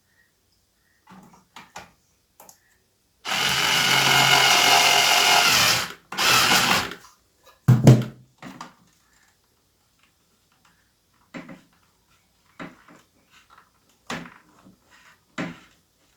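Electric screwdriver motor running for about three seconds and then again for about a second, driving screws back in. Short clicks and knocks of parts being handled follow.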